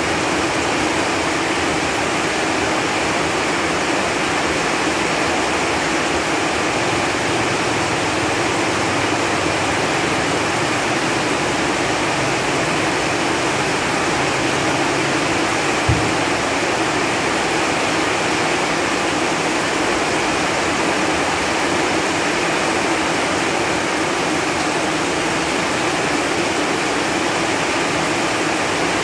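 Steady rain falling on leaves, an even hiss, with one brief low thump about halfway through.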